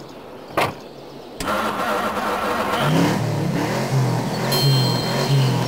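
A car door shuts with a sharp click about half a second in. About a second later a car engine starts and keeps running, with a low, rhythmic pulsing from about three seconds in.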